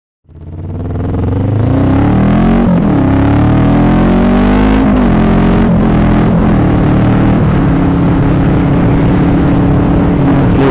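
Motorcycle engine pulling away and accelerating through the gears: its pitch climbs and drops back at each of about three upshifts, then holds steady at cruising speed.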